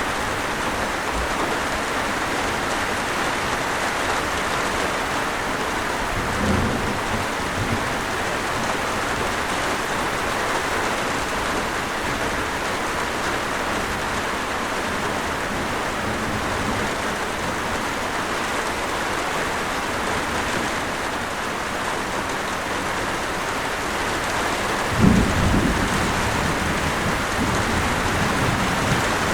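Steady heavy rain hissing on surfaces, with rolls of thunder: a faint rumble about six seconds in and a louder one starting near the end.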